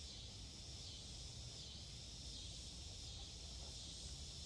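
Faint steady chorus of insects, swelling and fading every second or two, over a low rumble.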